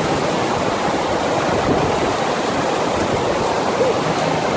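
Steady rush of water from a FlowRider sheet-wave machine, a thin sheet of pumped water pouring up over the ride surface.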